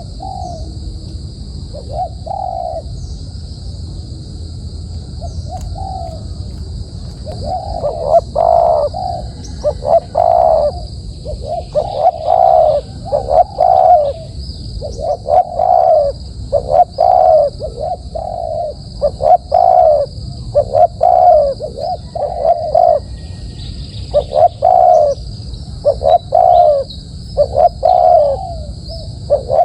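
A dove cooing over and over in short coos. They are sparse at first and become loud and close together, roughly one a second, from about eight seconds in. A steady high hiss runs underneath.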